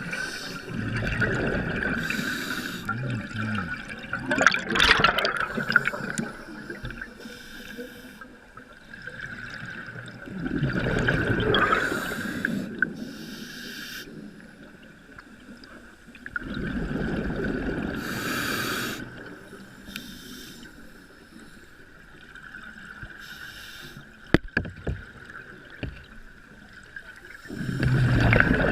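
Water sloshing and splashing against a boat's hull in surges every few seconds, over a steady high-pitched hum.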